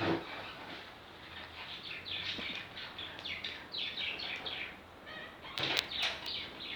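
A bird chirping: a run of short, quick, falling chirps, with a sharp knock near the end.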